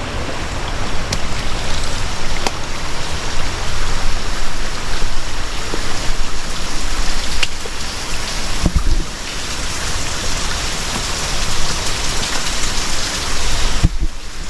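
Steady rushing of nearby falling water, loud and even, with a few faint knocks.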